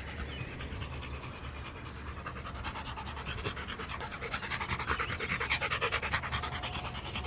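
A Rottweiler panting fast and rhythmically, getting louder about halfway through. The dog is out of breath from running after its ball.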